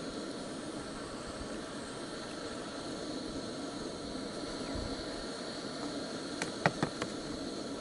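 Steady hissing noise, with a few sharp clicks or knocks about six and a half seconds in.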